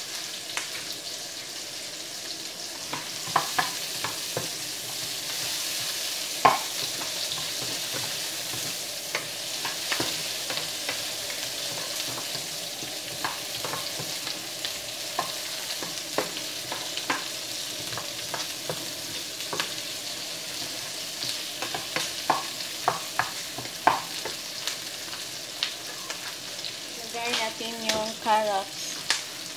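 Chopped onions and garlic sizzling steadily in oil in a frying pan, stirred with a spatula that knocks and scrapes against the pan now and then.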